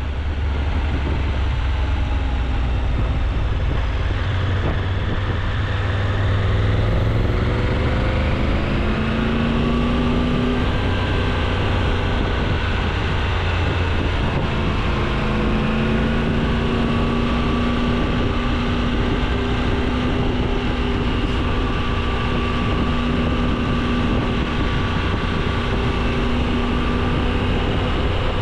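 Triumph Tiger 800's three-cylinder engine under way, its pitch rising as it accelerates about eight to ten seconds in and then holding steady at a cruise, with heavy wind rushing over the microphone.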